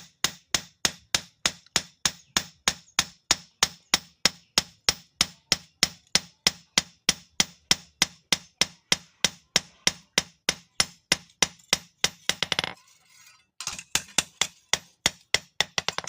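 Hand hammer beating metal on an anvil in steady, ringing blows, about three and a half a second, as a sickle is forged. The blows stop briefly about thirteen seconds in, then start again.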